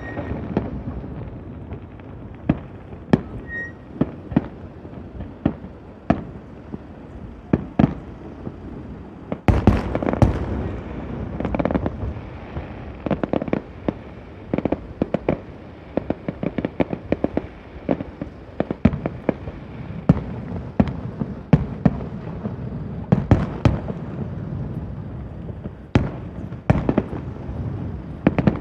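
A fireworks display: sharp bangs of aerial shells bursting at irregular intervals over a continuous rumble and crackle, with a dense flurry of bursts about ten seconds in.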